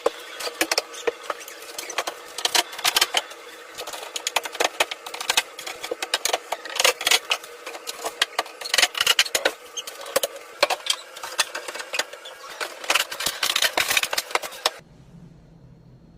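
Dense, irregular clicks, taps and rattles like small hard parts being handled. They stop suddenly about a second before the end, leaving a faint low hum.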